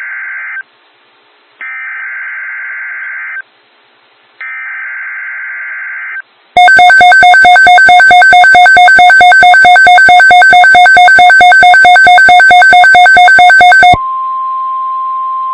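NOAA Weather Radio SAME alert header: three short raspy digital data bursts, each about two seconds long. Then a very loud pulsing electronic alert tone for about seven seconds, followed near the end by the steady single-pitch weather radio warning alarm tone that precedes the spoken watch.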